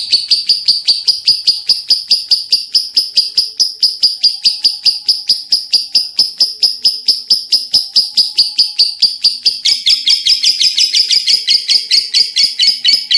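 Lovebird giving a long, unbroken 'ngekek' chatter: a rapid run of sharp, high notes, about six or seven a second, sustained without a pause. About three-quarters of the way through, the notes turn coarser and fuller.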